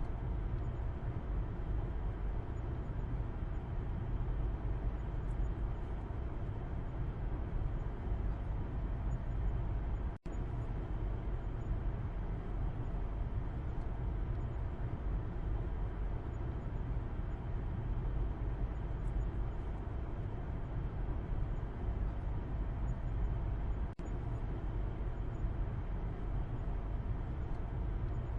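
Steady low road rumble and engine drone inside a moving car, heard from the back seat. It is broken twice by a split-second dropout.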